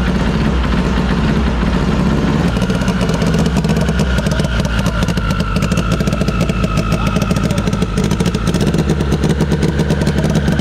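Turbocharged four-cylinder race-car engine idling cold on its first start, running rough with a misfire that the crew puts down to a stuck injector.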